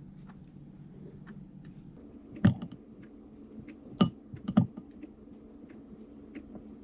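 Three sharp knocks among small clicks and taps, over a low steady hum.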